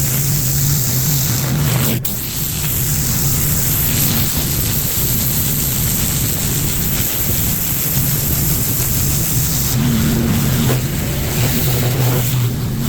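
Pressure washer running steadily, its engine humming under a wide hiss of high-pressure water spray. There is a brief break in the spray about two seconds in.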